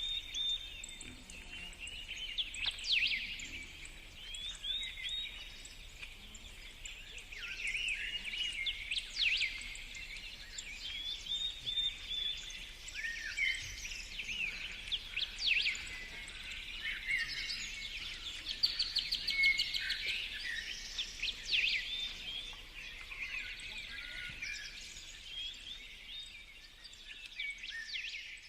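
Songbirds singing: a continuous chorus of overlapping chirps, trills and quick whistled notes.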